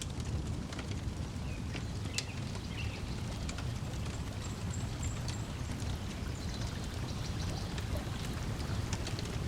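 Lakeside ambience: water lapping in a steady low wash, with scattered crackles from a wood fire and a few faint bird chirps.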